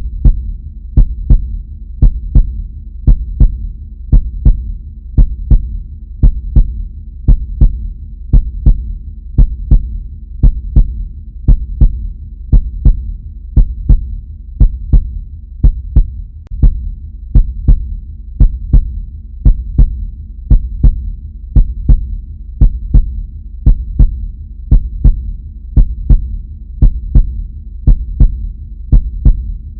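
Heartbeat sound effect: a steady rhythm of paired lub-dub thumps over a low, continuous rumble.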